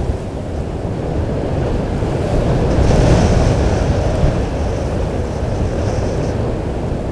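Wind buffeting an outdoor microphone, a dense low rumble that swells a few seconds in. A faint, steady high-pitched sound sits over it through the middle seconds.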